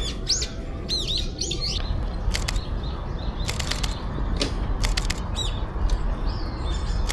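Small birds chirping: quick arching call notes in the first two seconds, then clusters of short, sharp high ticks.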